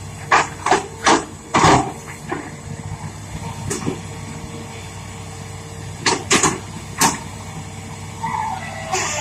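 Hitachi Zaxis200 excavator's Isuzu 6BG1 six-cylinder diesel running steadily, with a string of sharp knocks over it: four quick ones in the first two seconds, one near the middle and three more later. A hiss starts near the end.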